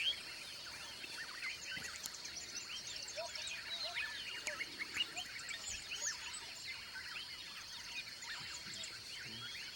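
Many birds chirping at once in a dense chorus of short calls, over a steady high-pitched hum.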